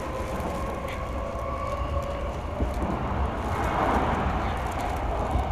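Odakyu 3000 series electric commuter train running: a steady low rumble from the wheels on the rails with a faint whine from the traction motors, growing a little louder about halfway through.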